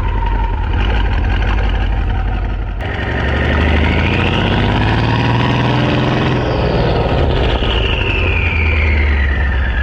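Mercedes-AMG 5.5-litre biturbo V8 exhaust with a deep, steady idle rumble. The engine pitch rises and falls once in the middle, a light blip of the throttle. A high wailing tone slides slowly up and down in the background.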